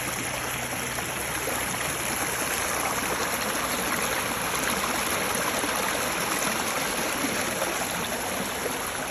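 Fast-running creek rushing over rocks, a steady wash of water with no letup.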